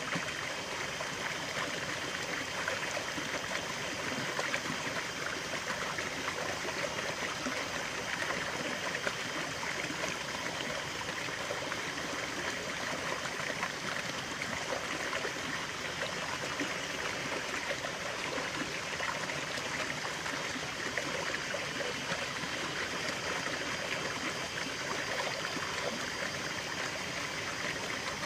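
Natural stream of water running and trickling steadily, an even rushing with fine bubbling detail.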